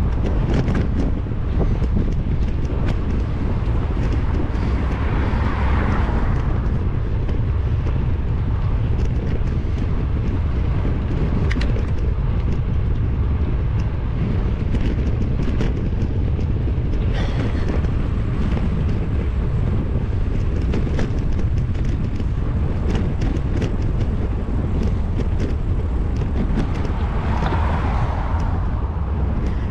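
Wind rumbling steadily on a GoPro's microphone while riding a bicycle, with scattered clicks and rattles. Two swells of road noise, about six seconds in and near the end, are vehicles passing.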